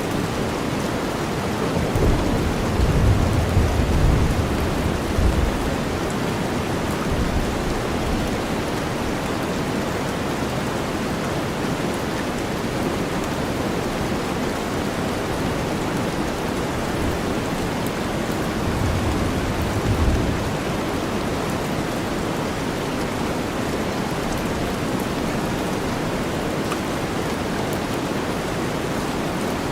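Steady rain blended with deep white noise, an even hiss. Low thunder rumbles over it twice: a longer roll a few seconds in and a shorter one about two-thirds of the way through.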